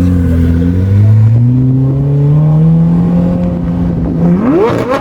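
Performance car engine accelerating, its pitch climbing steadily and then holding. Near the end it gives a quick, sharp rev that rises and falls.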